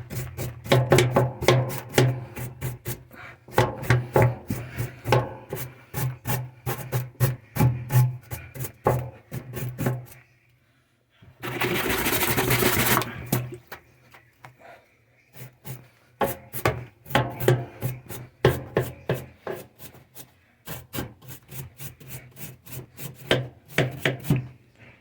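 Irregular knocking, tapping and scraping over a steady low hum, broken about twelve seconds in by a two-second burst of hiss.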